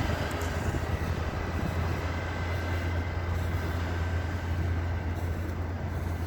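Snow plough truck's engine running with a steady low drone while it scrapes snow off the pathway, over an even scraping hiss. A short sharp knock at the very start.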